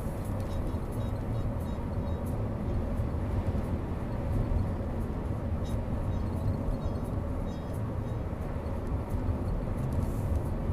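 A car driving at steady road speed: an even rumble of engine and tyre noise.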